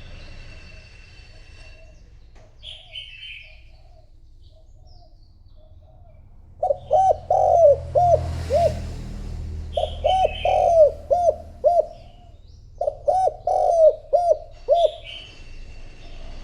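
Spotted dove cooing: faint coos at first, then three loud phrases of repeated short coos starting about six and a half, ten and thirteen seconds in. This is a decoy dove's calling coo, used to draw in wild doves; a smaller bird chirps faintly between the phrases.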